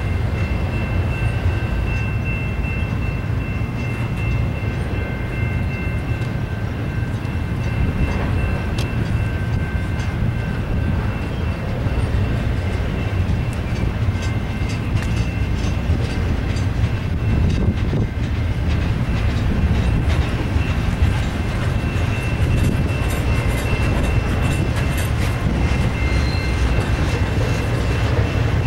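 Double-stack container train's cars rolling past: a steady low rumble of wheels on rail. Over it runs a thin high whine that fades out about a third of the way in and comes back later, and there is light clicking near the end.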